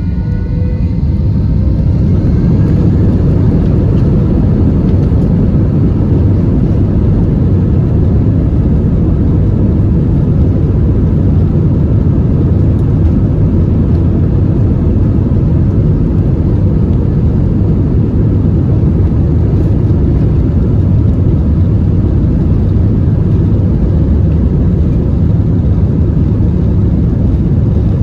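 Airbus A321 jet engines heard from inside the cabin, spooling up to takeoff thrust: a rising whine over the first couple of seconds gives way to a loud, steady, low engine noise that holds without a break.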